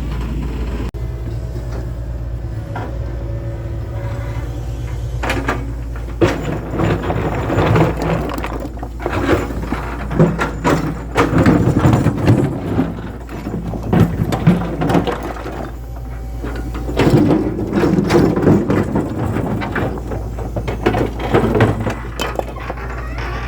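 A steady low mechanical hum, with irregular clattering and knocking from a few seconds in until near the end.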